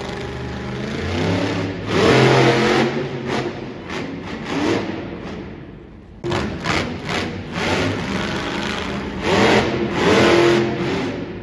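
Monster truck engine revving hard in an indoor arena, its pitch rising and falling, with loud surges about two seconds in and again near the end.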